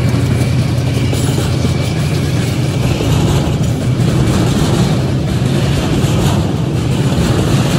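A Union Pacific diesel-electric freight locomotive running past at close range with a steady low engine hum, then double-stack container cars rolling by with a continuous rumble of wheels on rail.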